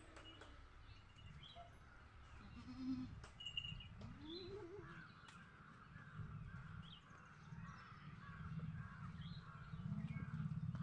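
Goats bleating a few times, faint, one call wavering up and down, with small birds chirping now and then over a low rumble.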